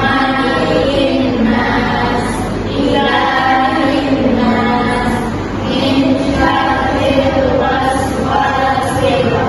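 Several voices singing a song together in unison, in held phrases about a second long.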